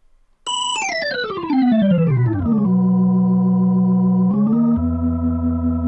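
Sampled organ sound from an SF2 SoundFont preset: a quick glissando running down the keys, settling on a held note, then rising a little to a held chord with a deeper bass underneath.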